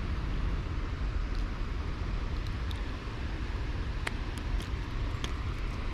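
Steady low outdoor rumble with no clear pitch, with a few small sharp ticks scattered through the middle.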